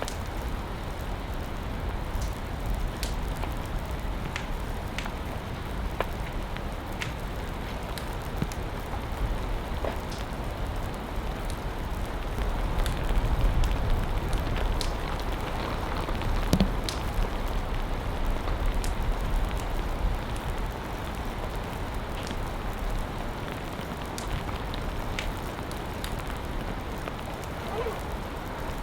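Heavy rain falling steadily, with scattered sharp drop ticks on a nearby surface.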